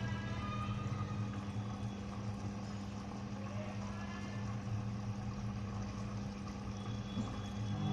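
IFB automatic washing machine running its wash cycle, a steady machine hum.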